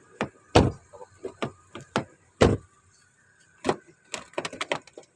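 Sharp clicks and knocks from a car door's handle and latch being worked at uneven intervals, a pause in the middle and a quick run of clicks near the end; the door is frozen shut after snow.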